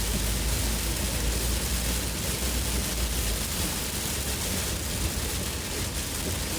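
Heavy monsoon rain on a moving car: a steady hiss over a low, continuous road rumble.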